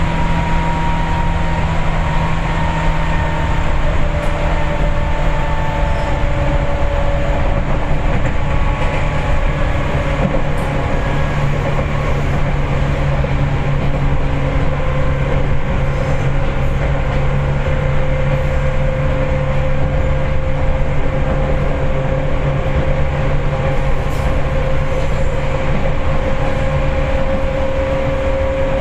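Seibu 4000 series electric train running at speed, heard from inside the passenger car. The wheels and track give a steady rumble, and a few whining tones from the drive slowly drift in pitch as the speed changes.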